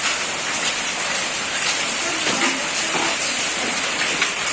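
Hailstorm: heavy rain and hail falling in a dense, steady hiss, with scattered clicks of hailstones striking.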